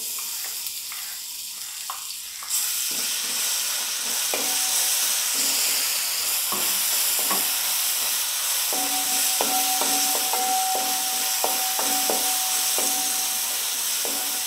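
Crushed garlic, ginger and coconut slivers sizzling in hot coconut oil in a metal uruli, with a wooden spatula scraping and tapping across the pan as it stirs. The sizzle grows louder about two and a half seconds in, and from about nine seconds the uruli itself gives a steady ringing hum under the stirring.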